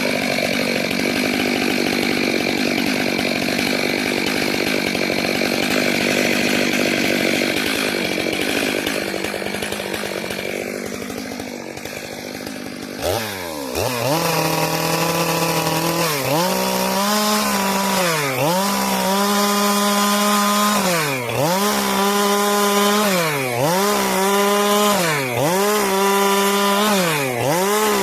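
Stihl MS462 two-stroke chainsaw sawing through eucalyptus wood at high revs. Steady at first; from about halfway its engine pitch repeatedly dips under load and rises back, roughly every second and a half.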